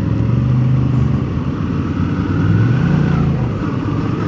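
Suzuki V-Strom 650's V-twin engine running while the bike rides along; its note rises a little about two and a half seconds in, then eases back.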